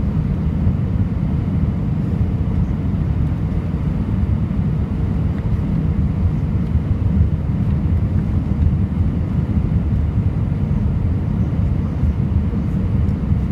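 Steady cabin noise inside a JetBlue Airbus A320 on its landing approach: the deep rumble of the IAE V2500 engines and the airflow, with a faint steady hum above it.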